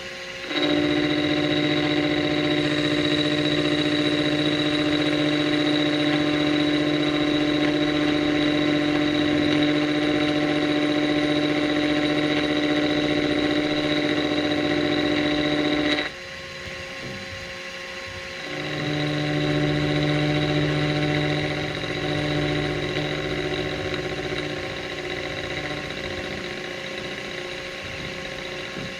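Machine-tool motor running with a steady hum that starts within the first second and cuts off suddenly about halfway through; a couple of seconds later a second, quieter hum starts and slowly fades.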